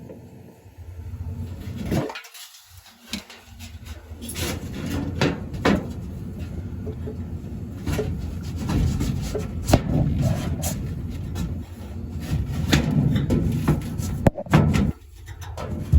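Irregular clicks, knocks and rubbing from hands fitting a replacement refrigerator temperature controller (cold control) back into place.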